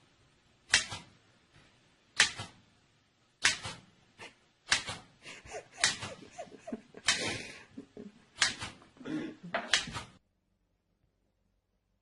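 A series of sharp knocks or smacks, about one every second and a half, then a quicker cluster of knocks, cutting off suddenly about ten seconds in.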